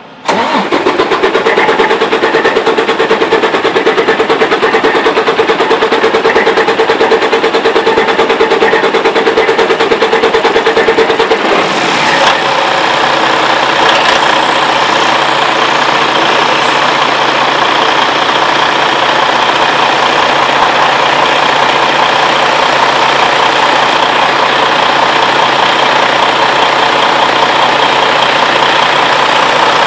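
Detroit DD15 diesel engine of a semi truck being cranked after a fuel filter change and priming, turning over for about eleven seconds before it catches and settles into a steady idle.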